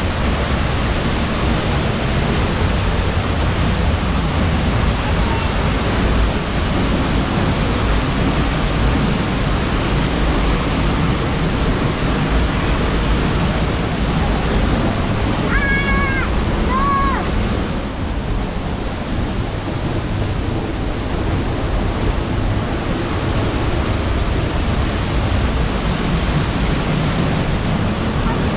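Steindalsfossen waterfall: a loud, steady rush of falling water, with two short high-pitched calls about halfway through.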